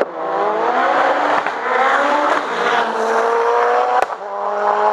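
Race car engine accelerating hard under full throttle. The pitch climbs steadily and drops back at upshifts about two and four seconds in.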